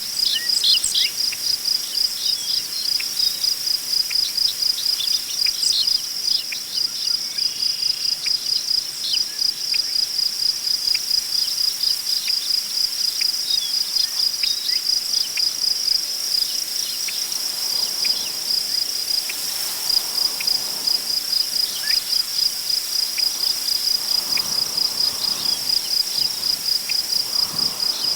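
Crickets chirping in a steady, rapidly pulsing high-pitched chorus, with scattered short bird chirps. In the second half, soft gusts of wind rustle through tall prairie grass.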